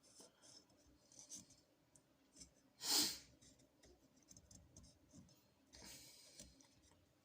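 Small metal engine parts being handled, piston rings in a motorcycle cylinder barrel: faint scrapes and light clicks, with one louder brief rasp about three seconds in and a softer one about six seconds in.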